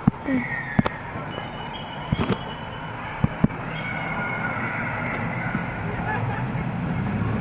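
Distant fireworks going off: a handful of sharp bangs and pops in the first three and a half seconds, with a steady outdoor rumble growing louder toward the end.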